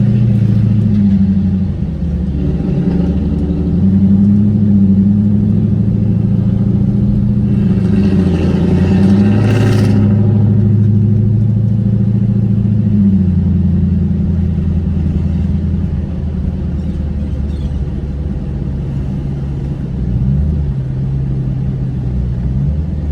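Car engine running loud and low, its pitch rising and falling as it is revved. It swells louder and brighter about eight to ten seconds in, then settles into a steadier drone.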